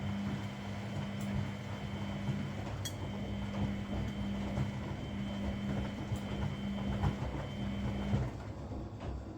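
Washing machine running its wash cycle: the drum motor hums steadily over the tumbling of the load, then the motor cuts off about eight seconds in as the drum pauses.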